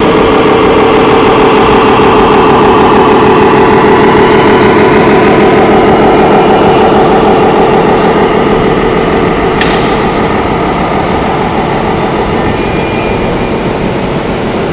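Diesel truck engine sound idling steadily, as played by an RC scale model truck's sound module. A single sharp click about ten seconds in.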